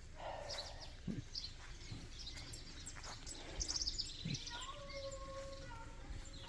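Small birds chirping, with a brief quick trill in the middle. About two-thirds of the way in, a young girl's voice starts singing long, held notes.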